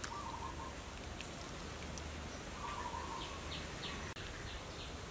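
Birds calling: a lower wavering call at the start and again midway, then a run of short high chirps repeated about three times a second, over faint steady background noise.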